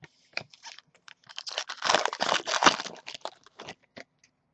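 Trading cards and their packaging being handled on a table: a run of quick clicks, rustles and crinkles, densest and loudest between about two and three seconds in.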